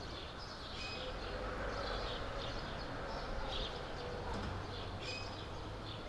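Birds chirping in short, scattered calls over a steady low outdoor background hum.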